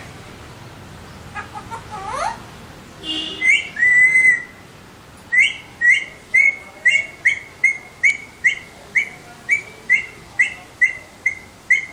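Alexandrine parakeet calling: a few rising chirps and a longer whistled note, then a steady series of short, evenly spaced calls, about two a second, from about five seconds in.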